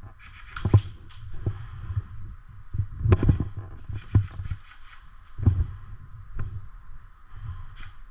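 Irregular dull thumps, about eight, some with a sharp click on top, over a faint steady hiss.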